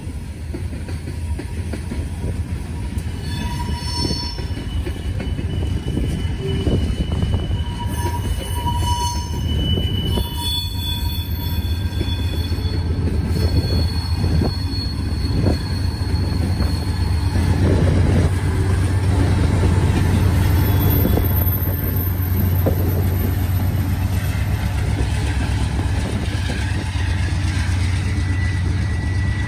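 Norfolk Southern freight train rolling past, a steady heavy rumble of cars on the rails. High-pitched wheel squeals sound over it for the first half and then die away.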